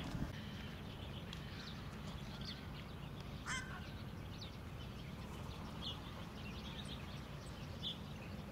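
Wetland waterbird calls: scattered short calls and one louder harsh call about three and a half seconds in, over a steady low rumble.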